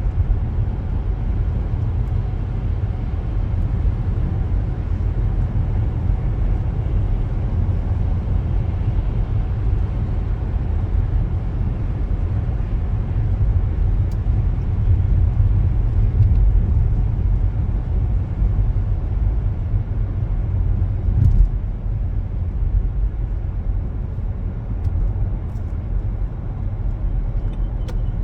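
A car driving, with a steady low road and tyre rumble. A single brief knock comes about two-thirds of the way through, and faint regular ticking starts near the end.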